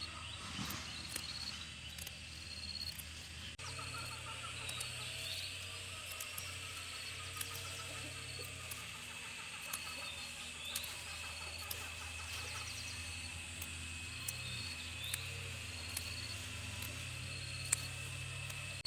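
Insects chirping: a steady high buzzing tone with short higher chirps repeating every second or so, over a low steady hum, with scattered light clicks and taps.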